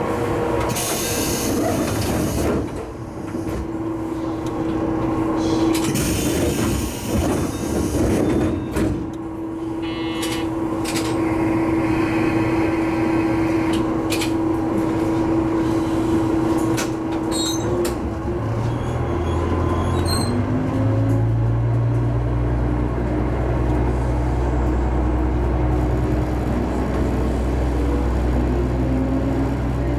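Diesel railcar standing at a station with its engine humming steadily, with air hisses from the doors in the first several seconds. About 19 seconds in the engine opens up and the train pulls away, its note rising and rising again as it gathers speed.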